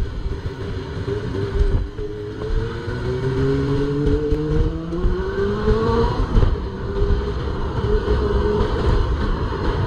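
Honda CB400 Super Four's four-cylinder 400cc engine pulling away under throttle, its pitch climbing steadily for about six seconds, then dropping and running steadier at a lower pitch. A low rumble of wind and road noise runs underneath.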